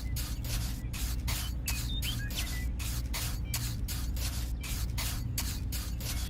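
Rhythmic hissing, about four pulses a second, over a steady low mechanical hum.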